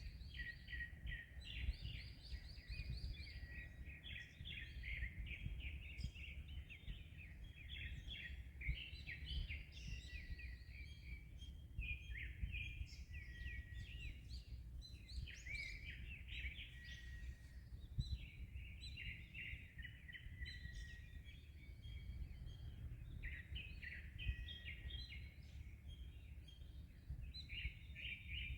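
Many small birds chirping and twittering without a break, in quick overlapping high notes, over a low steady rumble of wind and sea waves.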